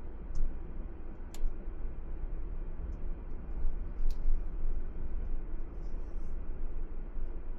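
Steady low rumble of a car being driven, road and engine noise heard from inside the vehicle, with a few sharp clicks.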